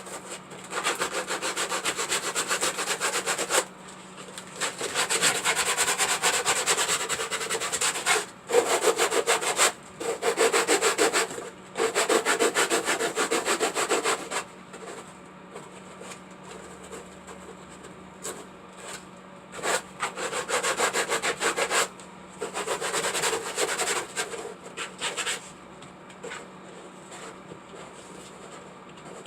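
Sandpaper rubbed back and forth over a surface in about eight bouts of quick strokes, separated by short pauses and stopping about 25 seconds in.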